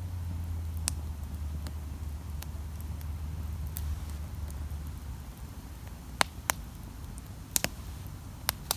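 Wood campfire crackling, with sharp irregular pops of burning wood, most of them in the second half. A low steady rumble underlies the first half and fades out about halfway through.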